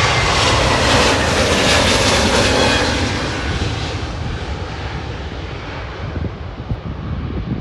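Airplane passing close by: loud engine noise with a whine that slowly falls in pitch, then fading away over the last few seconds.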